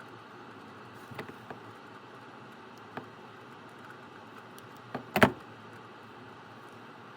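Small workbench handling noises over a steady hiss: a few light clicks of tools and parts, then a sharper clatter of several quick knocks about five seconds in.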